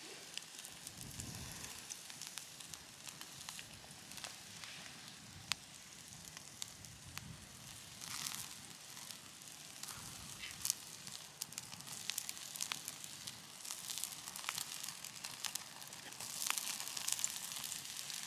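Wood fire crackling with irregular sharp pops, over a steady hiss of food sizzling on a grill above the flames; the hiss swells about halfway through and again near the end.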